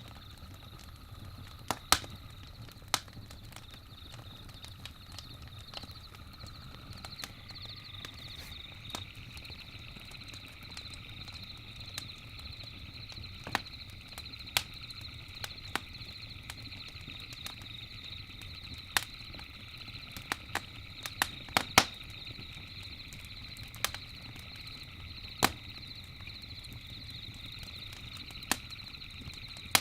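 Campfire crackling, with irregular sharp pops and a quick cluster of them about two-thirds of the way through, over a low steady fire rumble. Behind it runs a steady high night-insect trill, which thickens with a second, lower trill about a quarter of the way in.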